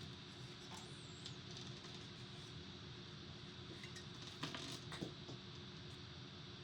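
Faint steady hum and hiss with a few light clicks about four and a half to five seconds in.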